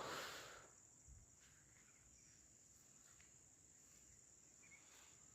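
Faint, steady high-pitched chirring of crickets in the countryside, near silence otherwise, with a short burst of noise right at the start.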